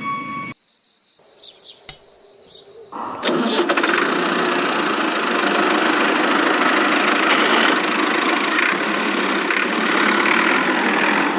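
A motor running, cutting out about half a second in, then starting again about three seconds in and running steadily.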